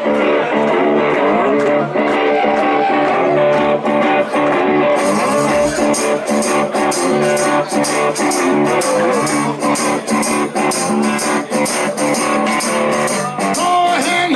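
A blues-rock band playing live, with guitar to the fore over bass and drums.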